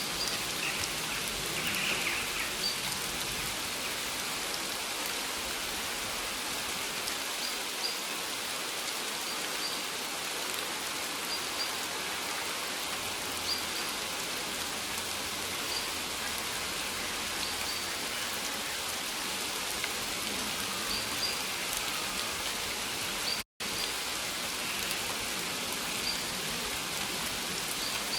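Steady rain falling, an even hiss of drops on surfaces. The sound cuts out completely for a split second about two-thirds of the way through.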